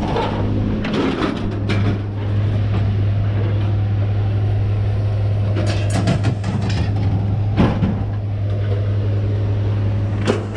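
An engine running steadily with a low, even hum, with several separate knocks and clatters over it.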